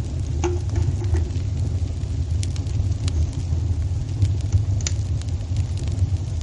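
Wood fire burning in a fireplace: irregular sharp crackles and pops, a few of them louder, over a steady low rumble.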